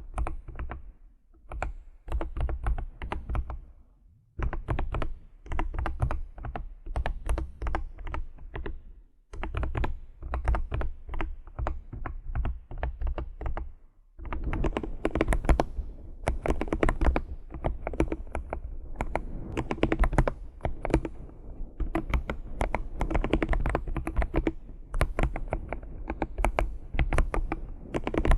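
Fingers typing rapidly on a computer keyboard, keys clicking in quick runs with brief pauses between them, the typing growing denser and louder about halfway through.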